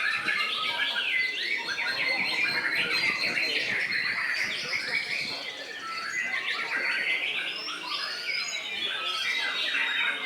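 Songbirds singing: a dense, continuous tangle of rapid chirps and whistles, many calls overlapping.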